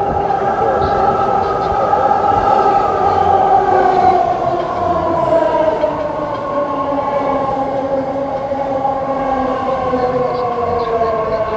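BART Fleet of the Future electric train's traction motors whining in several tones that slide slowly down in pitch as the train slows, over a steady rumble of the cars on the rails.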